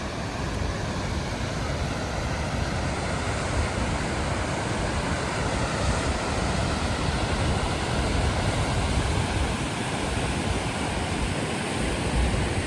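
Steady roar of Goðafoss waterfall's falling water, with low rumbling gusts of wind on the microphone.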